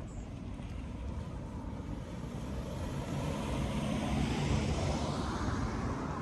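A vehicle passing by: its noise swells to a peak about four seconds in and then eases, the hiss sliding down in pitch as it goes by.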